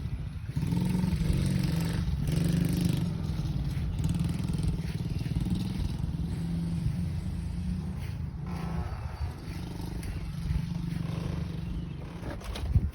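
Dirt bike engine running steadily, holding a fairly even pitch without big revs. A sharp knock near the end.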